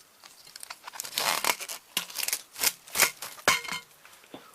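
Loose VHS magnetic tape being pulled and crinkled by hand, rustling in short bursts with a few sharp clicks.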